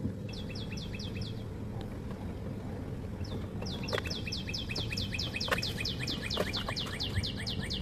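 Rapid high chirps, each a quick downward sweep, about five a second. A short run of about six comes early on, and a long unbroken run starts around halfway through. A low steady rumble sits underneath, with a few faint clicks.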